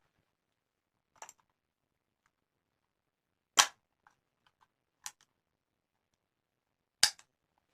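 Four short, sharp clicks from the action of a Leuchtpistole 42 flare pistol. They are spaced a second or two apart, and the loudest comes about three and a half seconds in, with another loud one near the end.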